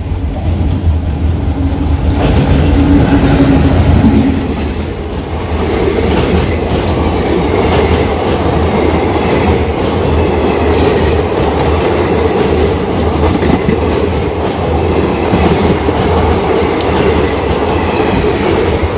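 Diesel-electric passenger train passing close by on a steel truss rail bridge. The locomotive's engine drone comes first, a few seconds in. It gives way to a steady rumble and clatter of coach wheels over the bridge rails, with a brief high wheel squeal about twelve seconds in.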